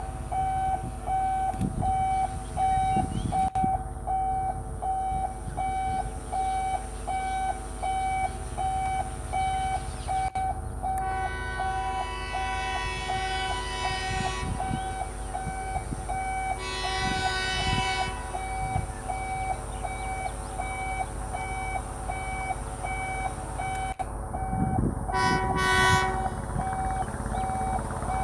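Rail vehicle horn sounding one long blast, then a shorter one, then a brief toot near the end, over a low running rumble and a steady rhythmic beeping of about two pulses a second.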